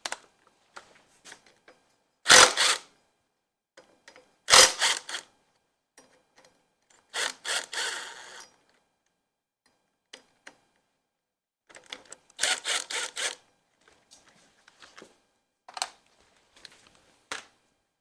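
Tool work on the bolts and accessories of a Ford 351 Windsor engine: a string of short, separate bursts of tool noise with clicks in between, the loudest about two and a half and about four and a half seconds in.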